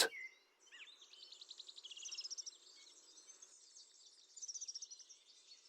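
Faint, high-pitched twittering of small songbirds in quick runs of repeated notes, louder about two seconds in and again near the end.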